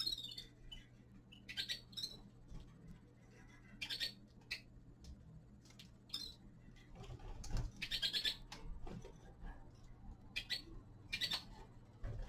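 Small finches in a cage giving short, scattered chirping calls every second or two, with a busier burst of calls in the middle, among light clicks and taps.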